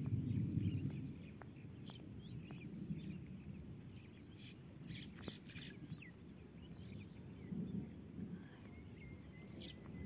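Outdoor ambience: faint, scattered bird chirps and a few light clicks over a low, uneven rumble that is strongest at the start.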